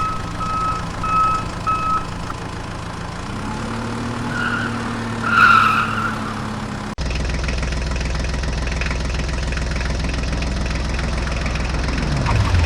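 Heavy-vehicle sound effects: a reversing beeper sounding about twice a second over a running engine, stopping about two seconds in. A short higher-pitched sound follows about five seconds in, then about seven seconds in the audio switches abruptly to a deeper, steady engine rumble, with a falling tone near the end.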